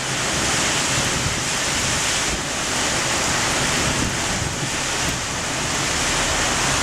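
Strong storm wind with rain during a thunderstorm downburst, a steady rushing noise that swells and eases slightly, with wind buffeting the microphone.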